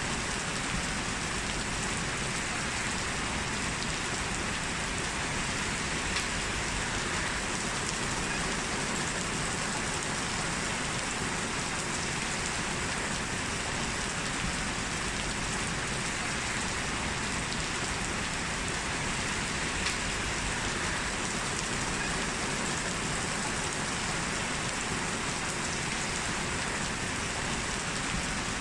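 Heavy rain falling steadily, a dense even hiss with scattered drop ticks on hard surfaces.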